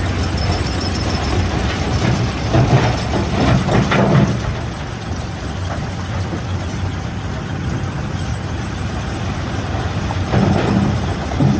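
Heavy machinery of a stone crusher running with a steady low engine hum, with louder rough surges about three seconds in and again near the end.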